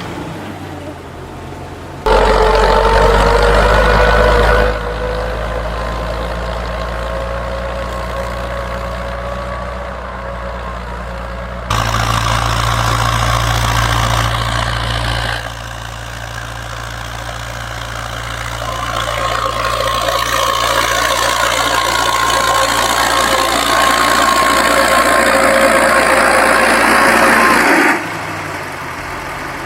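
Farm machine's engine running steadily with a whine above the engine hum, heard in several shots that change abruptly in loudness.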